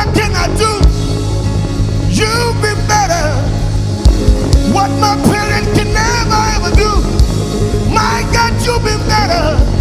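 Live gospel praise-and-worship music: a band with a strong bass line and drum hits, with singing voices holding wavering notes over it.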